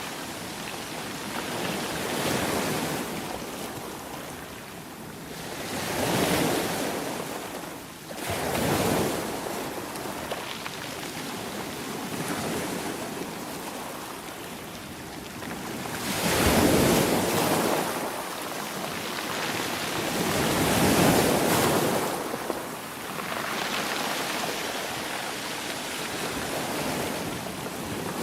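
Ocean waves breaking and washing on a shore, swelling and ebbing every few seconds, with two larger waves about two-thirds of the way through.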